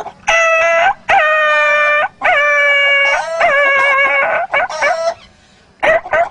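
A man imitating a dog yelping and howling in pain, as if struck with a stick: four drawn-out, steady-pitched cries, each opening with a quick upward flick, then a few short yelps near the end.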